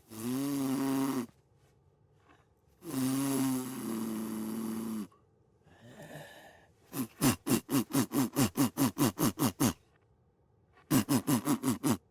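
Cartoon snoring: two long drawn snores, then two runs of quick fluttering puffs, about five a second.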